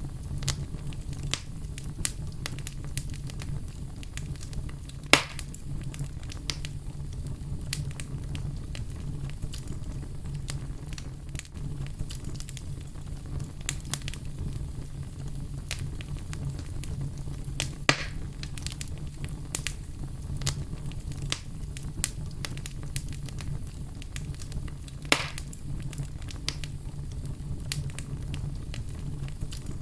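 Wood fire burning with a steady low rumble and frequent small crackles, and three louder pops spread through it.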